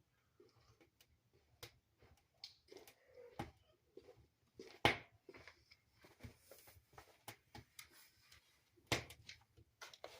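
Wood fire crackling in a fireplace: irregular sharp pops and snaps, the loudest about five seconds and nine seconds in.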